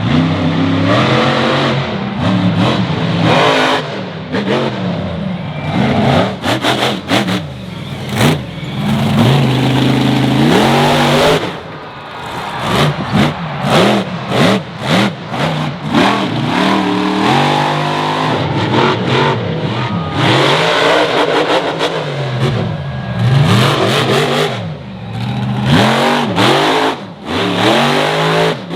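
Monster truck engine revving hard, its pitch swelling up and falling back over and over as the throttle is worked. Short sharp cracks and bangs come in between the revs.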